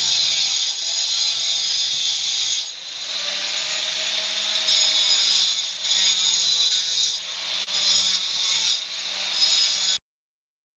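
A power tool running, its sound rising and falling as the load changes, then cutting off suddenly near the end.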